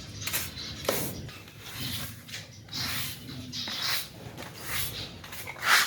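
Irregular scraping and brushing strokes from a bird cage and its trays being scrubbed clean, each stroke short, with a louder one near the end.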